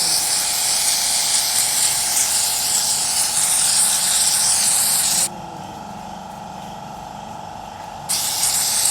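Workshop spray hissing hard in two blasts: a long one of about five seconds, then a shorter one starting near the end, over a steady background hum.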